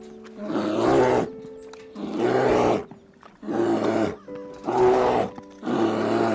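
A large animal giving a run of about five loud, evenly spaced calls, each under a second long, over steady background music.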